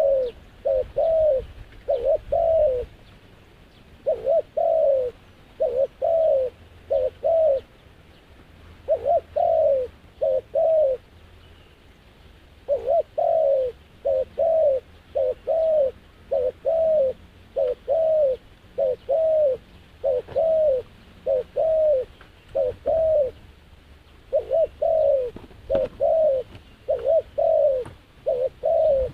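A dove cooing over and over: short coos that rise and fall, in quick groups of two or three, repeating every second or two.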